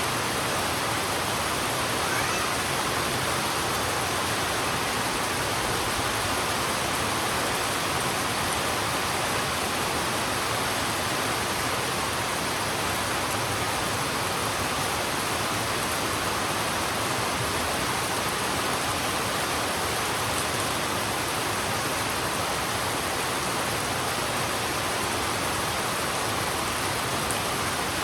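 Heavy rain falling steadily on a road surface, a constant even hiss.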